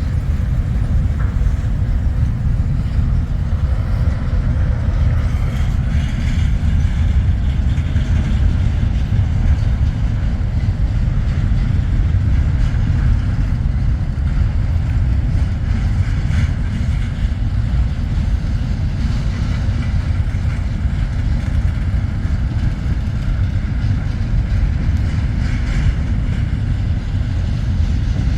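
Steady, loud, low rumble of a heavy vehicle running without a break.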